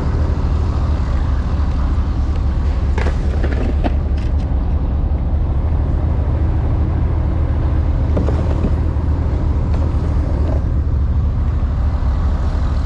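A steady low engine drone, with a few faint knocks about three, four and eight seconds in.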